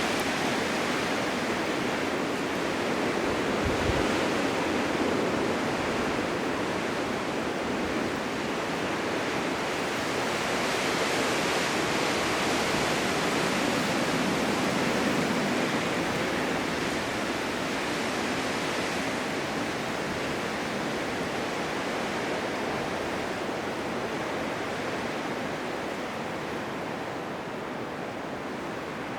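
Blizzard wind: a steady rushing noise that slowly swells and eases, a little softer near the end.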